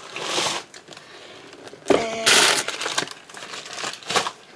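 Crinkling of packaging as craft supplies are handled, with light rustling at the start and a louder crinkle lasting about a second just past the middle.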